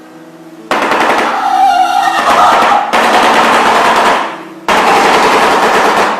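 Shoebill bill-clattering: a loud, rapid machine-gun-like rattle of the mandibles, starting about a second in and coming in bouts of a second or two with short gaps between.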